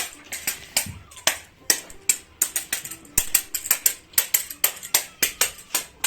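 Small toy tambourine being shaken and tapped by hand, its little metal jingles giving a rapid, irregular run of sharp clicks, about three to five a second.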